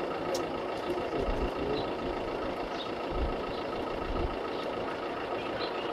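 Steady drone of a nearby idling vehicle engine, with scattered faint metallic clicks as a bicycle chain is worked on at the rear derailleur.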